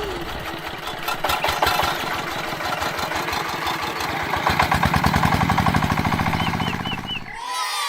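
Small engine running with a rapid, even beat, growing louder past the middle and cutting off abruptly near the end.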